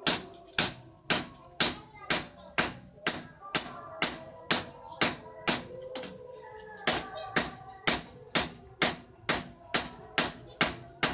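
Hand hammer striking leaf-spring steel on an anvil in a steady rhythm of about two blows a second, each blow leaving a short bright metallic ring. The hammering stops for about a second and a half in the middle, then resumes at the same pace.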